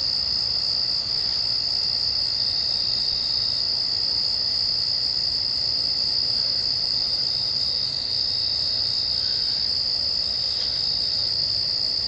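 Night insect chorus: a steady, high-pitched continuous trill that does not let up.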